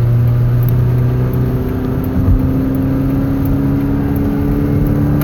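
Car engine running at freeway speed, its drone rising slightly after a brief acceleration, over steady road and tyre noise.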